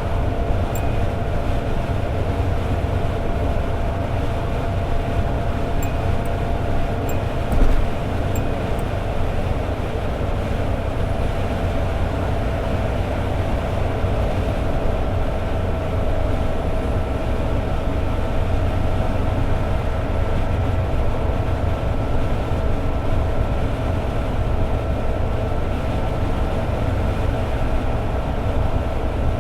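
Toyota AE86 Sprinter Trueno cruising at a steady highway speed: a constant engine drone over deep tyre and road rumble, with one brief low thump about eight seconds in.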